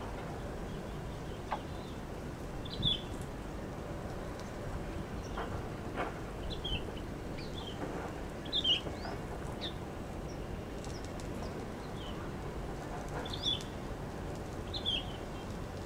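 A small bird chirping: short, high, downward-slurred calls every second or so, with a gap of a few seconds in the middle, over a steady outdoor background hiss.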